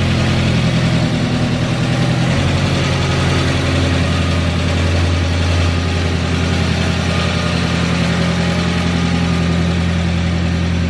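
Freshly installed VW 1.8T 20-valve turbocharged four-cylinder engine in an MK2 Golf GTI idling steadily. Its pitch shifts once and settles about two seconds in.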